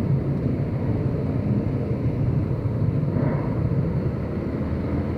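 Motorcycle underway: a steady low rumble of engine and riding noise.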